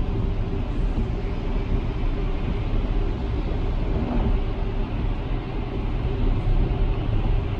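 Steady road and tyre noise heard inside the cabin of a Tesla Model X, an electric car with no engine sound, cruising on a rain-wet freeway.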